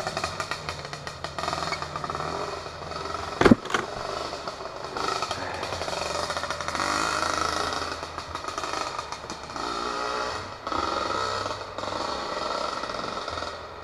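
Two-stroke dirt bike engine revving up and down as it climbs, with a sharp loud knock about three and a half seconds in.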